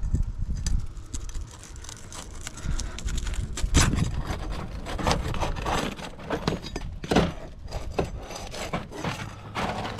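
Irregular knocks, clicks and scraping as a sliding asphalt shingle is pried and worked loose while searching for a holding nail. The sounds grow busier and louder after a few seconds.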